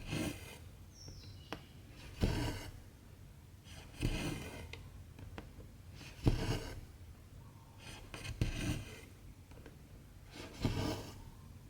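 Cotton embroidery thread being drawn through 14-count cross-stitch fabric: a short rasping swish with each stitch, six times at an even pace about two seconds apart, with faint ticks of the needle piercing the cloth in between.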